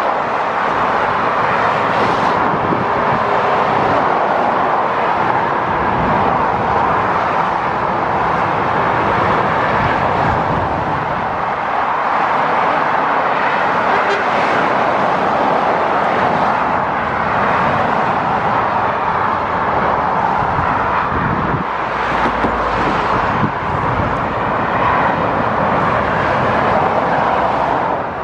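Steady motorway road noise: a continuous rush of vehicles and tyres on the road, swelling slightly now and then.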